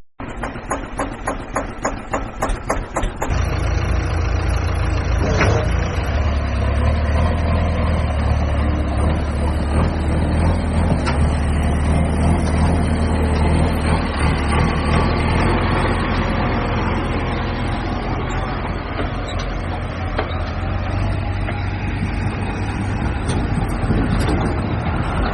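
A heavy vehicle's engine running steadily with a low drone. For the first few seconds there is a quick regular pulsing, and a sharp sound comes about five seconds in.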